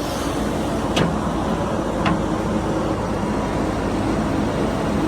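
Diesel tractor engine running steadily with a low rumble, with two sharp knocks about one and two seconds in.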